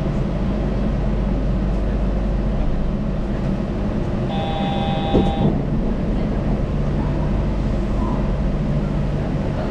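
Rubber-tyred Yurikamome automated guideway train running, a steady low rumble from inside the car. About four seconds in, a brief steady tone sounds for just over a second, with a single knock near its end.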